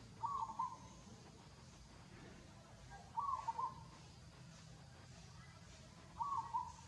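An animal call repeated three times about three seconds apart, each a short run of a few notes at a middle pitch.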